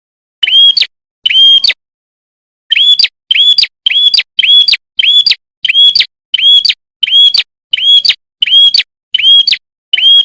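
Prinia (prenjak) calling: a loud, sharp, chirping note repeated about one and a half to two times a second. The run pauses briefly near the start, then goes on at an even pace.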